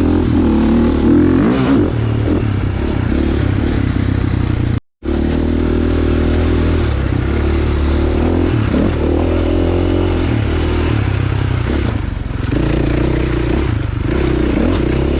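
Dirt bike engine running under way, its revs rising and falling over and over as it is ridden over a rocky trail. The sound cuts out completely for a split second about five seconds in.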